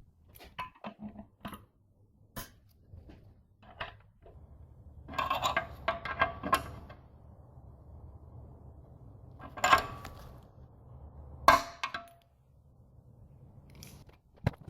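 Small metal parts clinking and knocking as they are handled, with a low steady hum running through the middle.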